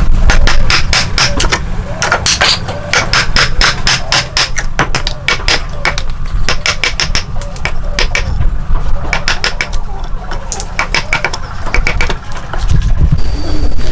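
Rapid series of sharp knocks of a hand tool striking wood, a few a second, in uneven runs with short pauses, over a steady low rumble.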